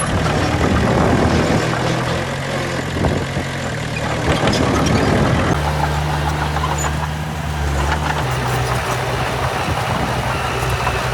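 Heavy diesel engine of an earthmoving machine running steadily. Over the first half a rough scraping rumble rides on top of it, then it stops abruptly about halfway in, leaving only the even engine sound.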